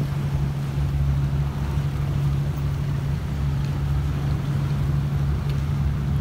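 Steady low engine drone holding one pitch, with wind rumbling on the microphone.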